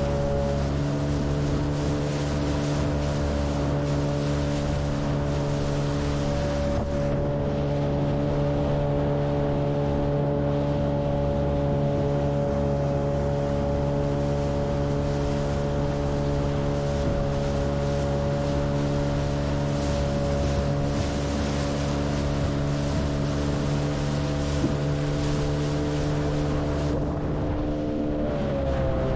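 Boat motor running at a steady speed, with wind noise. Near the end the engine note dips briefly and then comes back up.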